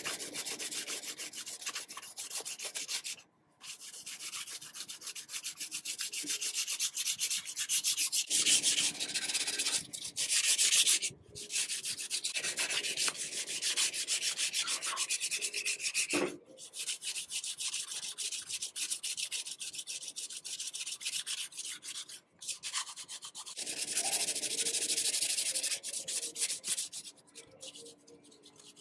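Abrasive sanding or scrubbing of rusty metal on an antique sewing machine, to remove the rust. A fast, rasping scrape that breaks off abruptly several times and starts again.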